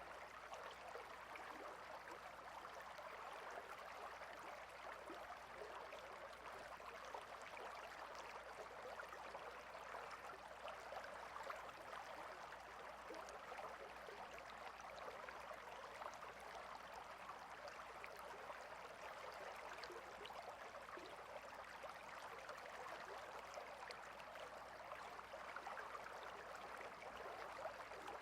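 A stream of running water flowing: a faint, steady rush with fine trickling detail.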